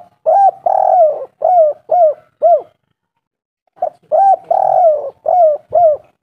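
Spotted dove (tekukur) cooing: two loud phrases of about six low, hooked coos each, with one longer note early in each phrase and a pause of about a second between the phrases.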